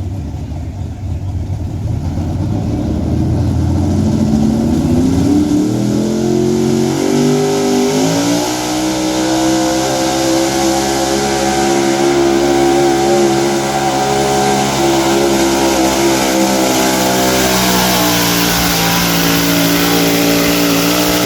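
Outlaw 4x4 pulling truck's engine at full throttle during a pull against the weight sled: the revs climb over the first several seconds, then hold high and steady, and drop sharply at the end.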